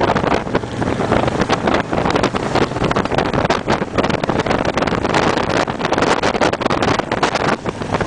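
Motorcycle engines running at road speed inside a long tunnel, under heavy wind buffeting on the microphone.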